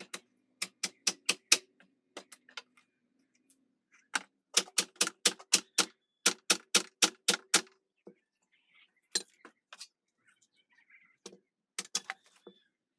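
Hammer driving nails, in quick runs of four to eight sharp strikes about four a second, with short pauses between the runs.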